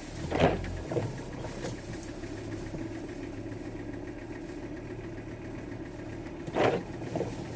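Steady van engine and road noise from inside the cab while driving. Two brief louder sounds stand out, one about half a second in and one near the end.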